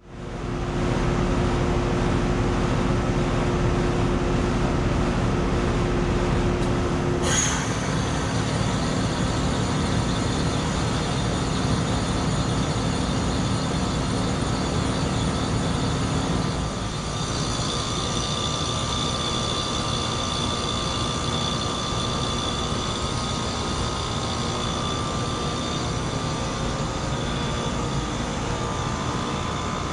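Outdoor heat pump units running in freezing weather: a steady hum of compressors and condenser fans. About seven seconds in, a low steady tone stops suddenly and several high-pitched whines come in. Around sixteen seconds the sound shifts again, a little quieter, with new whining tones.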